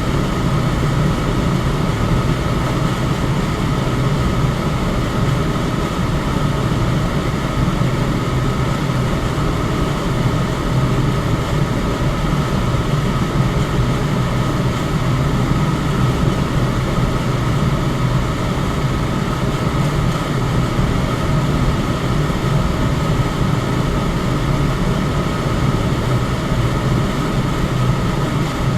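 Electric fan running at a steady speed: an even rush of air over a low hum, with a fainter steady higher tone, unchanging.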